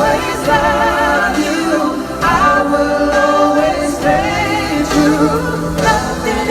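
Live pop ballad: several voices singing together in harmony over band accompaniment, with long held notes that bend and glide in pitch.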